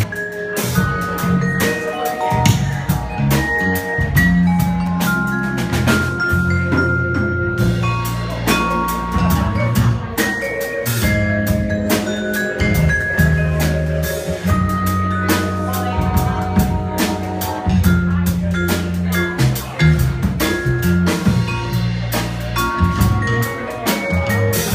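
A band playing an instrumental passage: a drum kit keeps a steady beat under a bass line and held melody notes that step from pitch to pitch.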